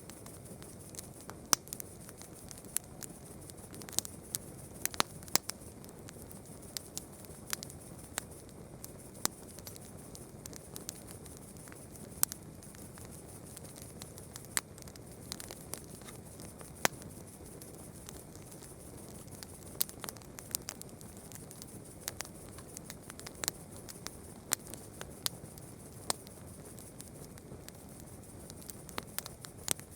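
Wood campfire crackling: irregular sharp snaps and pops, a few much louder than the rest, over the steady hiss of the burning fire.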